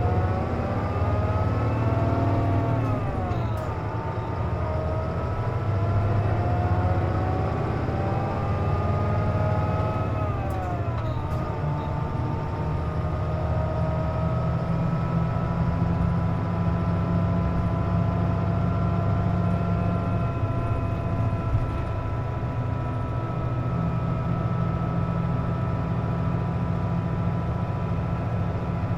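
Hino KC-JP250NTN city bus heard from inside while under way: diesel engine rumble with a whining tone that rises as the bus gathers speed, drops sharply twice at gear changes about 3 and 11 seconds in, then holds steady while cruising. The bus is running with its air conditioning on, which gives it its unusual whining noise.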